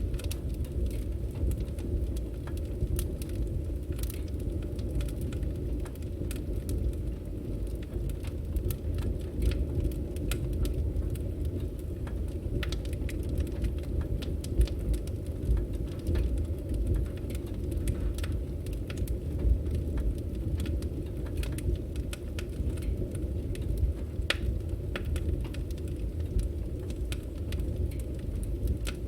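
Firewood burning: a steady low rumble of flames with frequent small, irregular crackles and snaps.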